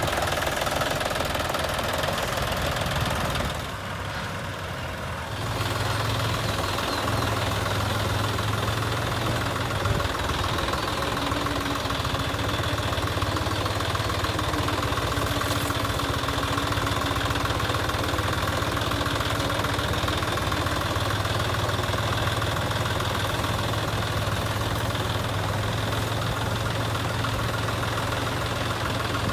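Tractor engine running steadily, dropping briefly quieter for a couple of seconds about four seconds in.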